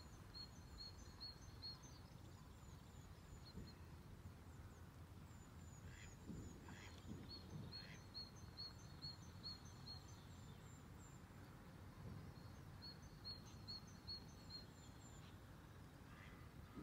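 Quiet outdoor ambience with a low steady rumble, over which a small songbird repeats a short high chirp in quick, evenly spaced runs, three times.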